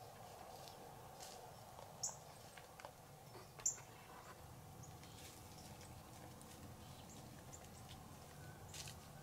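Two short, sharp, high-pitched chip notes from a small bird, about a second and a half apart, over a quiet background of faint scattered ticks.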